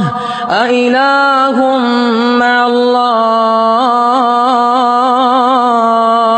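Quran recitation in melodic tajweed style: a single voice holds a long, drawn-out note at a steady pitch, with brief ornamental turns in the melody.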